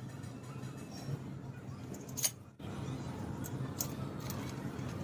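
Light metallic clicks and clinks, one sharp one about two seconds in and a few softer ones later, over a steady low hum.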